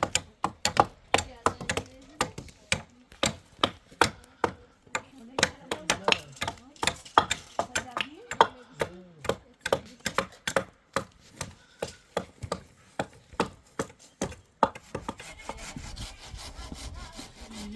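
Rapid sharp blows on wood, about two to three a second. Near the end the blows stop and a steady rasping begins.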